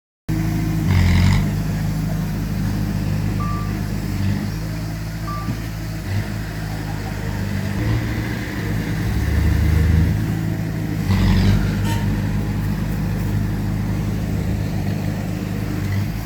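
Diesel engines of heavy earthmoving machinery, a bulldozer and a dump truck, running under load, their pitch rising and falling. Two short beeps come a few seconds in, with louder rushes of noise about a second in and again around eleven seconds.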